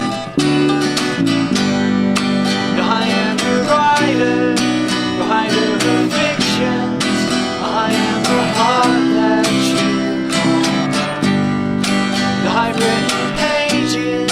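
Acoustic folk-rock band playing: rhythmically strummed acoustic guitar over sustained chords, with bass underneath.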